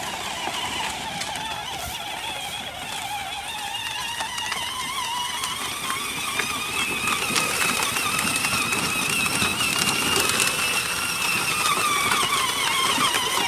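Electric motor and gearbox of a child's battery-powered ride-on toy truck whining as it drives, the pitch wavering and the sound slowly growing louder.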